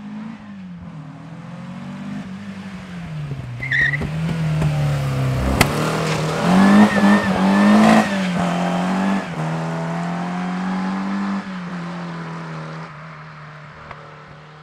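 Classic VW Beetle's air-cooled flat-four engine driven hard past at rally pace, its pitch rising and dropping several times as it revs through the gears. It is loudest about six to eight seconds in, then fades as the car drives away.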